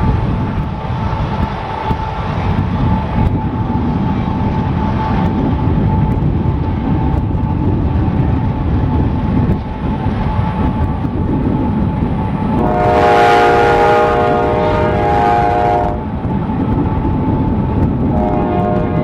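Freight cars of a CSX freight train rumbling and clacking past, with a locomotive horn sounding faintly and steadily in the distance. About two-thirds of the way through, the locomotive's multi-chime air horn blows one loud blast of about three seconds, and a second blast starts near the end.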